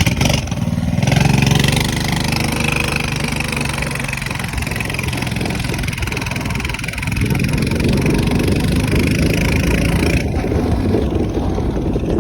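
Minibike engine running under way, a steady low rumble, with a hiss over it that cuts off about ten seconds in.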